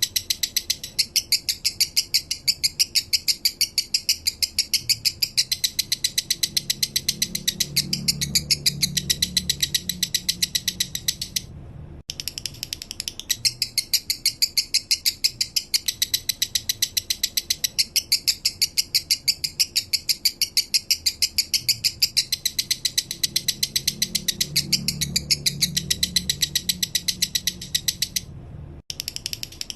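Male lovebird singing its slow "minor" song: a rapid, even string of sharp, high chirps that breaks off twice for a moment.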